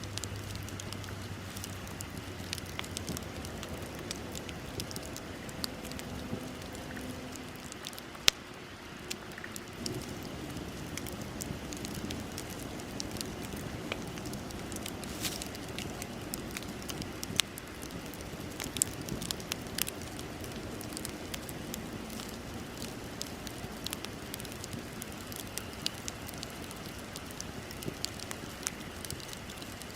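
Wood bonfire burning: a steady hiss and rustle of flames with frequent sharp crackles and pops, one louder pop about eight seconds in.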